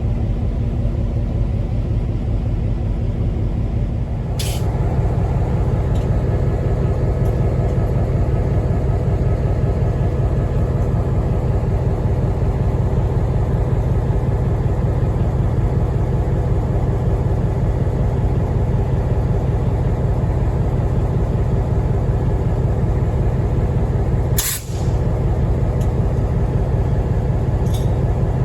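Conway Scenic Railroad locomotive running with a steady low engine rumble. Short bursts of air hiss come about four seconds in and again near the end.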